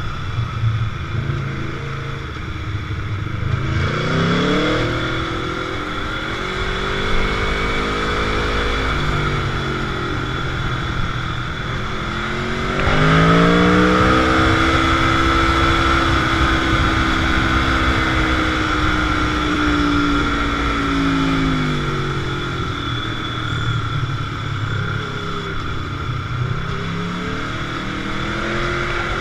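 Motorcycle engine on the move, revving up hard twice, about four seconds in and again about twelve seconds in, each time holding high revs and then easing off, over a steady rushing noise.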